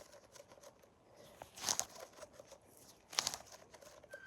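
A squishy toy being handled and squeezed, with soft crinkly rustling and two stronger squishing bursts, about a second and three seconds in.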